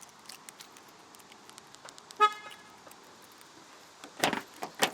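A 2016 Mazda3's horn gives one short chirp about two seconds in as the car is locked, with light clicks around it. Near the end there are two louder clunks as the door is tried. This door fails to lock, which the owner puts down to something jammed in the lock.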